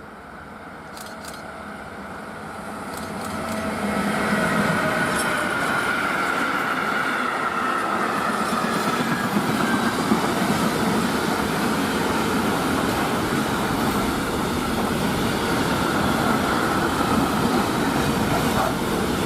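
A train approaching and passing on the tracks. Its rumble grows over the first few seconds and then holds steady, with a high wheel tone that drifts slowly in pitch above the noise.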